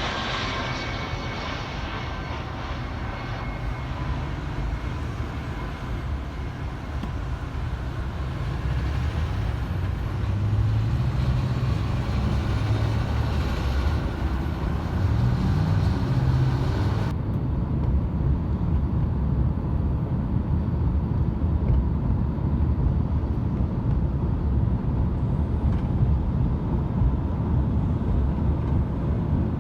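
Jet aircraft engine noise: a thin high whine over hiss that fades in the first few seconds, then a heavy low rumble that builds. The high hiss cuts off suddenly about 17 seconds in while the rumble carries on.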